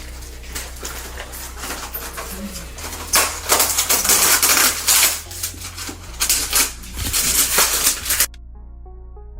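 Dense rustling and rapid clicking clatter over a steady low hum, loudest from about three seconds in. It cuts off abruptly near the end, and soft ambient synth music takes over.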